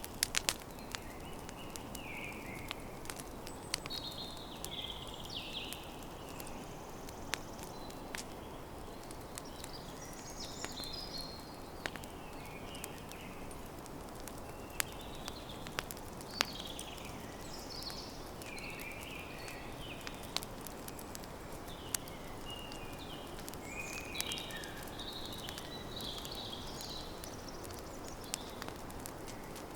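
Campfire crackling, with frequent sharp pops over a steady low rush of burning wood. Birds chirp in short phrases throughout.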